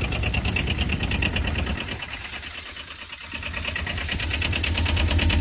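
Small diesel ATV engine idling with a fast, even clatter. It drops in level about two seconds in and comes back up near the end.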